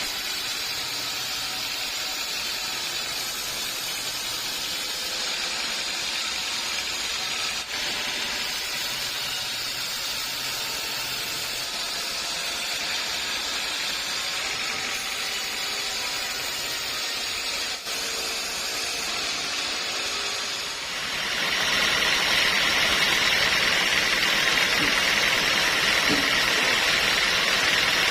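Sawmill saw and machinery running with a steady mechanical noise, growing louder and brighter about three quarters of the way in.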